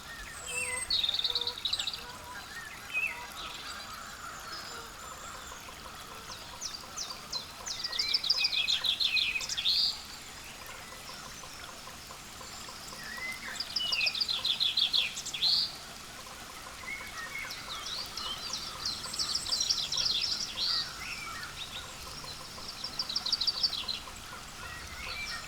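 Wild songbirds singing: a rapid, high trilled phrase repeated about every five seconds, with scattered chirps between the phrases.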